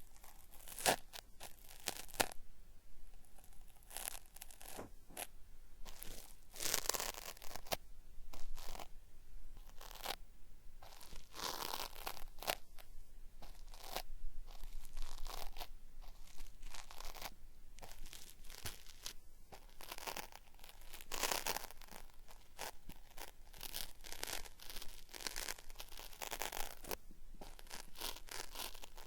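Cotton swab rubbed and scraped against a binaural microphone's ear, giving crackly peeling, tearing strokes in an uneven rhythm: the 'beri-beri' peeling-style ear-cleaning sound.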